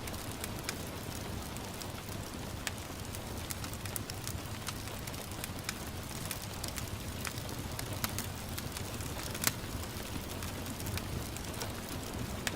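Wood fire crackling, with many small sharp pops scattered throughout and a louder one about three quarters of the way in, over a steady patter of gentle rain.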